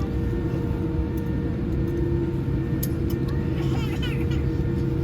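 Steady cabin rumble of a Boeing 787-8 airliner in flight, engine and airflow noise with a few constant hum tones running under it. Faint voices come through about three and a half seconds in, and there is a light click just before.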